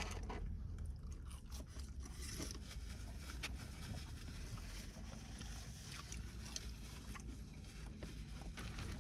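A person chewing food close to the microphone: faint mouth sounds and small scattered clicks over a low steady hum.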